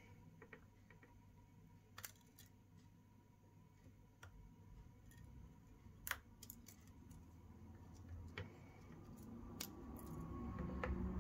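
Scattered small clicks and taps of precision tools and metal parts as an iPhone XR is taken apart and its screen connector unplugged, with a low hum rising near the end.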